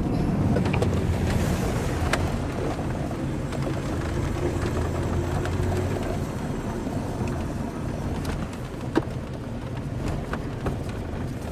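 A low, steady rumble like a motor vehicle's engine, slowly fading away, with a few faint clicks.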